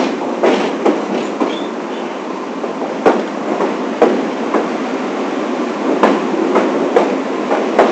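New York City subway train running along the track, with a steady rumble and sharp wheel clicks every half second to a second.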